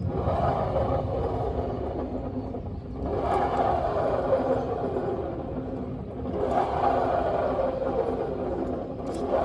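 Honda PCX scooter's engine and belt drive revved about three times, every three seconds or so, each rev swelling quickly and then sliding down in pitch. This is the abnormal noise that the owner traces to the driven face, the rear CVT pulley.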